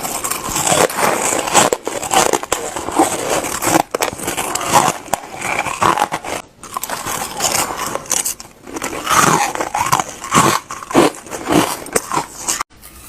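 Close-miked crunching and chewing of shaved ice eaten by the spoonful: a dense run of crisp crunches with a few short breaks.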